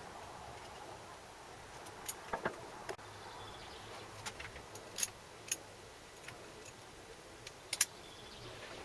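Scattered sharp clicks and light taps, a dozen or so at uneven intervals, the loudest a quick double click near the end, over a faint steady hiss.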